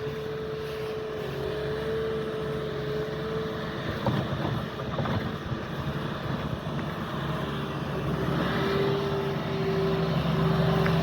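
A motor vehicle engine running with a steady hum over a background hiss; in the second half the hum comes and goes in short even pulses.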